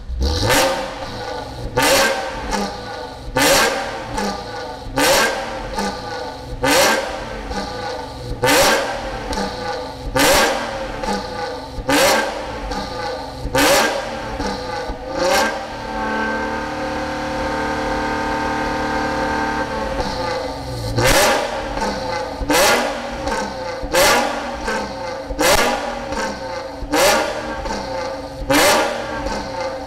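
Engine revved in quick blips, about one every second and a half, through an aftermarket NOVUM center pipe and SACLAM muffler. Mid-way the revs are held steady for about four seconds before the blipping resumes.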